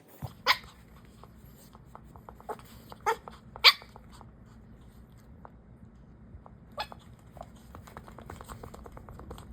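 A Pomeranian making a few short, sharp barks or snorts, the loudest a little under four seconds in, with runs of quick, fast breathing between them. A low steady hum sits underneath.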